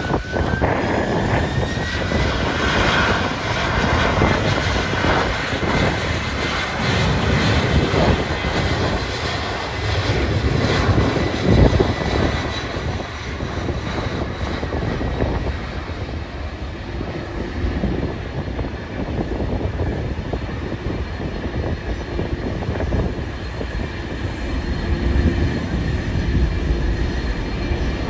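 Aircraft engines running, with a high whine that rises in pitch over the first few seconds and then holds steady over a dense rumble. Heavy wind buffeting on the microphone is mixed in.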